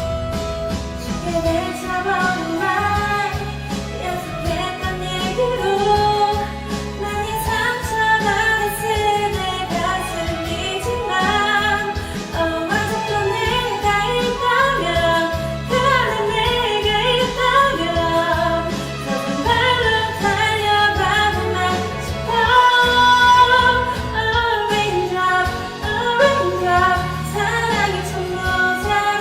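A song: a singing voice carrying a melody over steady instrumental backing.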